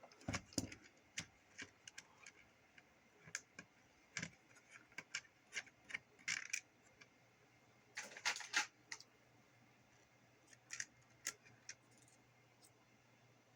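Irregular small metallic clicks and scrapes of Leatherman needle-nose pliers working the nut off a CB radio's antenna jack, with a short burst of clatter about eight seconds in.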